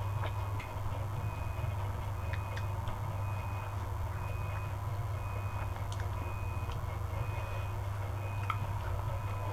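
An electronic beep repeating about every three-quarters of a second, over a steady low hum, with a few sharp clicks scattered through it.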